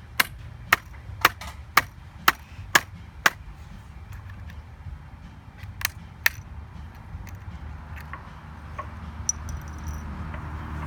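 Sharp blows striking a MacBook as it is being smashed apart: seven hard strikes at about two a second, then two more a few seconds later, followed by light clicks.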